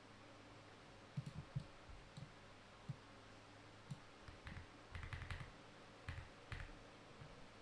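Faint, irregular clicks of keys being pressed, about a dozen, some in quick clusters about five seconds in, over a low steady hum.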